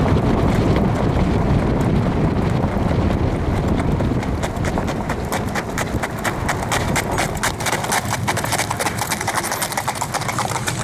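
Rapid hoofbeats of a Standardbred stallion moving at speed, coming in about four seconds in and growing clearer toward the end. Wind rumbles on the microphone in the first half.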